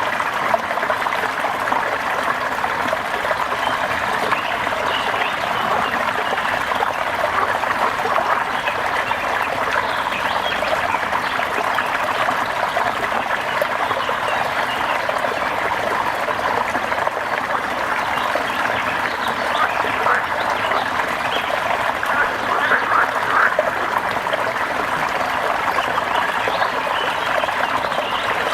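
Rainy-day nature ambience: a steady, dense wash of patter and trickling water.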